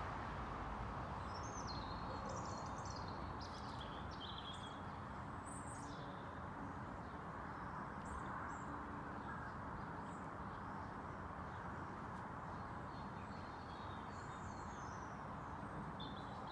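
Small birds chirping and calling again and again over a steady outdoor background hiss.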